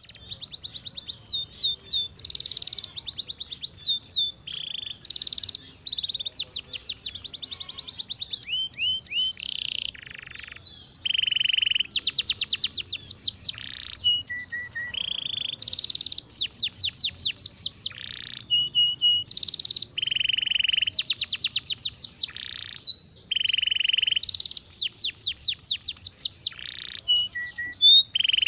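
Domestic canary singing a long, continuous song of high-pitched rapid trills and rolls, with short pauses between phrases.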